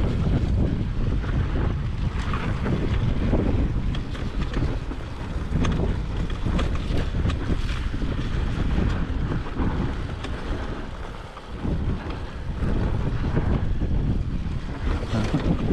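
Wind buffeting the microphone of a GoPro on a moving dirt bike, a dense low rumble that rises and falls, with the Honda CRF250R's single-cylinder four-stroke engine running underneath and a few sharp clicks.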